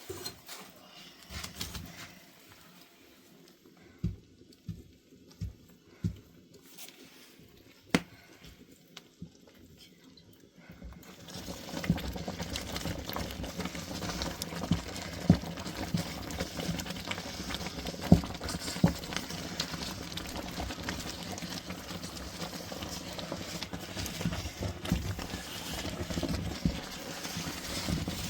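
Food cooking in a pot: a few scattered knocks, then about eleven seconds in a steady crackling, bubbling cooking sound starts suddenly and carries on.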